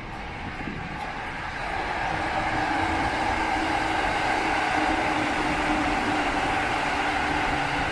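Electric train running past on the tracks, its noise growing louder over the first two seconds and then holding steady, with a steady motor whine through it.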